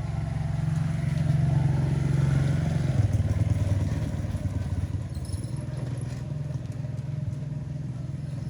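A motor vehicle engine running, louder for a couple of seconds, with its pitch dropping about three seconds in.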